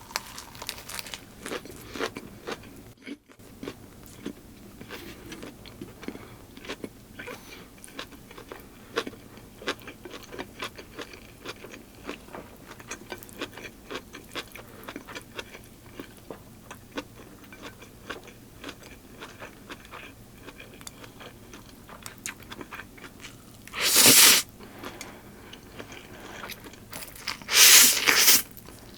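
Close-miked chewing and crunching of food, with many small wet clicks and crackles. Three louder, brief noisy bursts come near the end.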